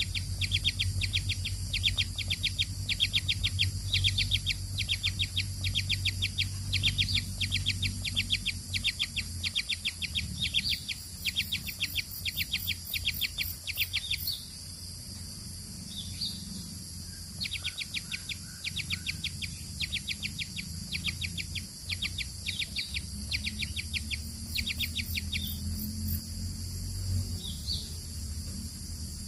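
Baby birds giving rapid, repeated high chirps in long runs, the begging calls of chicks being fed. About halfway through the chirping breaks into shorter bursts, over a steady low hum.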